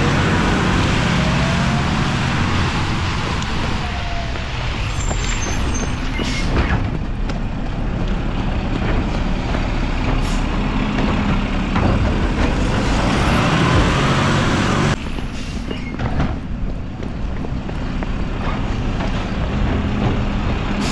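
Mack LR refuse truck with a Labrie body running at work: a steady low engine rumble under a loud hiss. The hiss cuts off suddenly about fifteen seconds in, and the engine keeps running.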